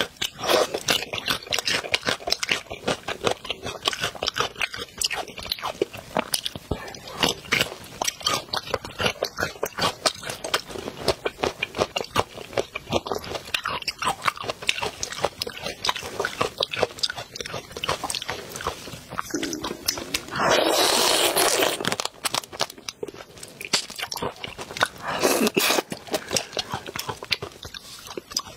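Mouth sounds of eating: steady crunching, chewing and wet clicks as shrimp and other food in chili oil are bitten and chewed. About three-quarters of the way in there is a louder rush of noise lasting about a second and a half, with a shorter one a few seconds later.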